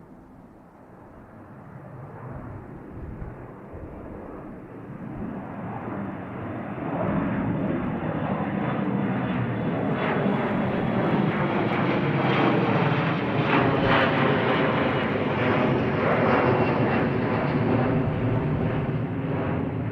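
Airliner's engines at takeoff thrust: a roar that builds over the first several seconds, then holds loud, with a crackling edge, until it cuts off suddenly at the very end.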